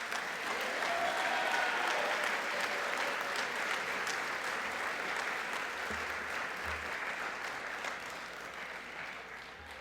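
Audience applauding in a large gym, the clapping starting right away and tapering off near the end.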